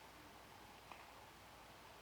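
Near silence: faint room tone with one faint click about a second in.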